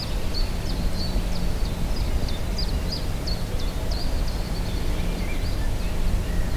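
Outdoor riverside ambience: a bird repeating short, high chirps at about three a second, fading out about two-thirds of the way in, over a steady low rumble.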